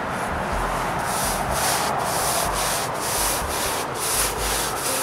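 Paintbrush stroking exterior finish onto a pine plank: a scratchy brushing sound, repeated about three strokes a second.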